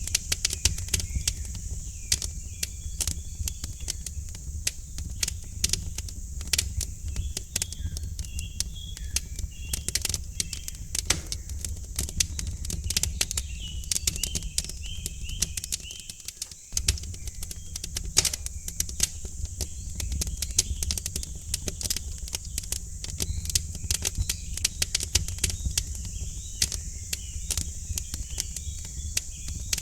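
Wood fire crackling and popping in a fireplace, dense irregular snaps over a low steady rumble, with small birds chirping faintly now and then.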